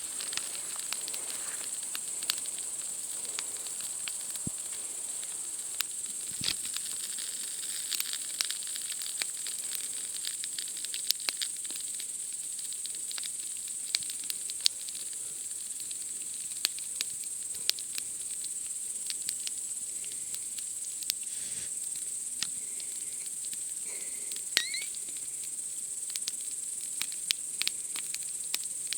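Wood campfire crackling with irregular sharp pops and snaps, over a steady high-pitched chorus of night insects chirping.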